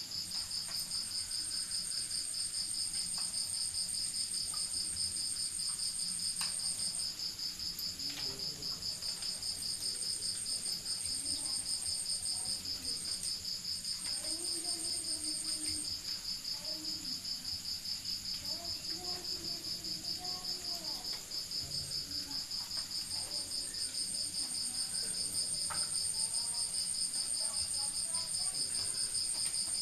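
Night chorus of crickets chirping continuously in a fast, even pulse, with a second, higher-pitched trill that drops out and comes back several times. Faint wavering sounds sit low in the background through the middle.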